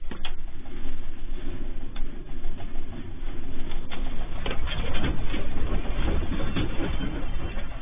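Earthquake shaking a house: a deep rumble that starts suddenly, with objects rattling and clattering throughout.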